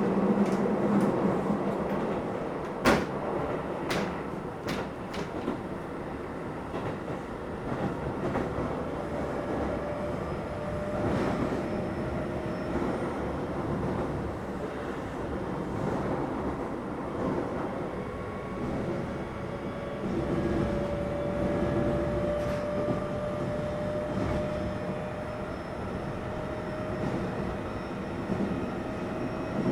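Keio 7000 series electric commuter train running, heard from inside the car: a steady rolling rumble with a few sharp wheel clicks over rail joints about three to five seconds in. Later a faint whine rises slowly in pitch.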